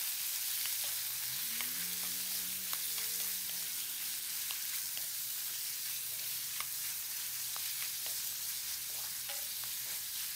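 Pork belly pieces sizzling in hot oil in a pan as they are stir-fried with a wooden spatula, which scrapes and clicks against the pan now and then.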